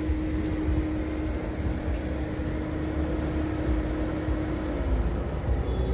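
Porsche Boxster S (986) 3.2-litre flat-six engine running at steady revs with a low rumble and a steady drone, which dips and fades about five seconds in.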